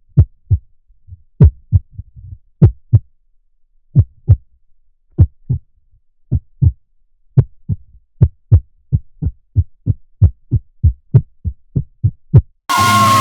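Heartbeat sound effect: pairs of low thumps, slow at first and speeding up steadily. Music cuts in just before the end.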